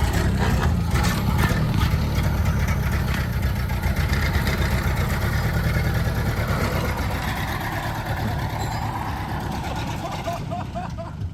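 1929 Ford Model A's four-cylinder flathead engine running steadily, freshly fuelled and running well.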